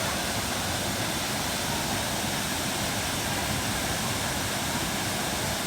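Waterfall pouring: a loud, steady rush of falling water heard close up.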